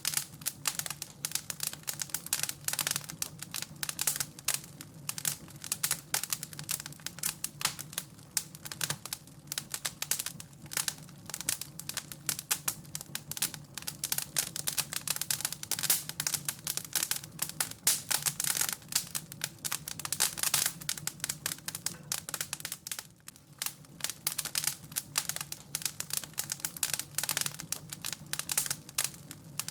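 Wood fire in a fireplace crackling, with dense, irregular snaps and pops over a faint steady low hum.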